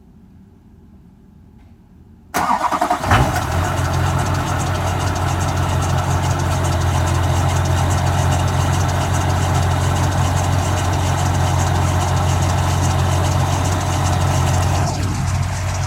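2001 Chevy Duramax's 6.6 L V8 turbodiesel starting: after a couple of seconds of quiet, it cranks very briefly and fires at once, then settles into a steady idle. This is an easy cold start at 20 °F with the block heater plugged in overnight.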